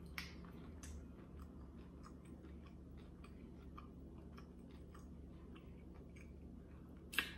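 A person chewing a crunchy hard-shell taco close to the microphone: quiet chewing with many small mouth clicks, and one louder, sharp crack near the end.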